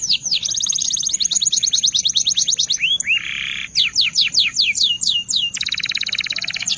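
Belgian canary singing: rapid series of repeated down-slurred whistled notes, broken about three seconds in by two slower notes and a short buzz, then a fast rolling trill near the end.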